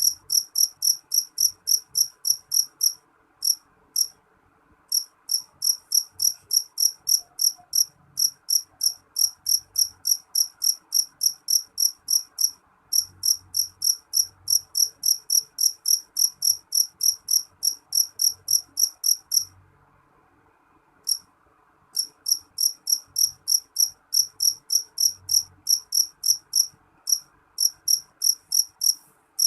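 A cricket chirping: an evenly spaced run of short, high chirps at about four a second, all at one pitch, stopping briefly twice before starting again.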